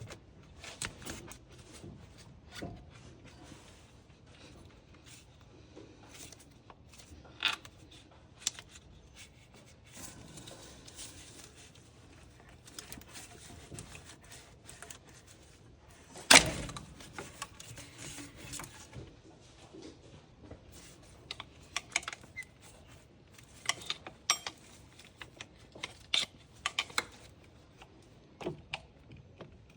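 Hand tools clicking, clinking and scraping against hoses and metal in an engine bay as radiator hoses are worked loose, with scattered light knocks and one loud knock about halfway through.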